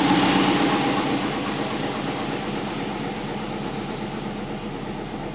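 Twin-turbo Subaru Forester's flat-four boxer engine idling steadily, an even running noise that eases slightly after the first second, while its idle is being tuned on the ECU.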